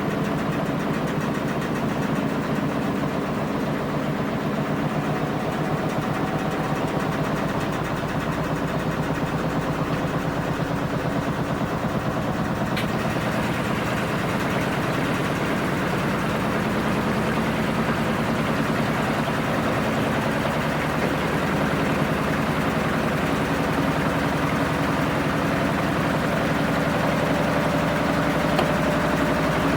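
Washing machine running mid-program, its drum motor giving a steady mechanical hum, with a little more hiss from about halfway through.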